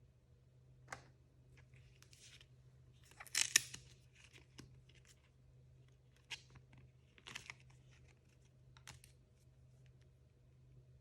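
Toy packaging being handled and torn open: a blind bag's wrapper rustling and crinkling in short bursts, with one louder tearing rip about three and a half seconds in.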